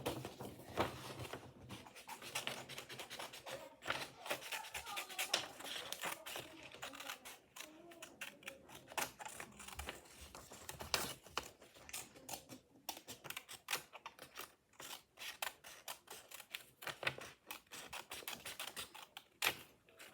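Scissors snipping through paper: a long run of irregular, quick cutting clicks as a shape is cut out by hand.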